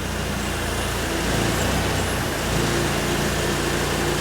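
Steady low mechanical hum with a faint higher tone that comes and goes.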